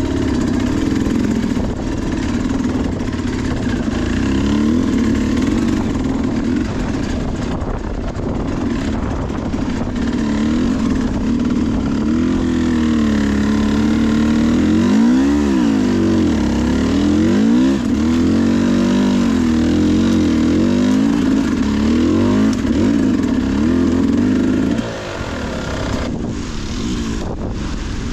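Two-stroke dirt bike engine of a Sherco SE300 working up a steep technical climb, its revs rising and falling over and over as the throttle is worked, with the swings strongest in the second half. The engine drops back to a lower, quieter note near the end.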